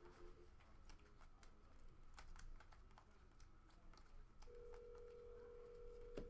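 Faint clicks and light rustling of trading cards being handled, with a steady electronic beep tone for about two seconds near the end.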